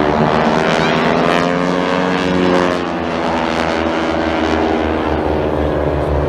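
Aircraft flying past overhead, its engine tone sliding down in pitch as it goes by in the first half, then a steady rumble.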